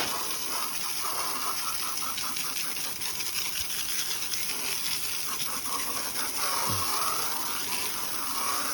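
Water spraying steadily onto a car's body during a wash, a continuous hiss.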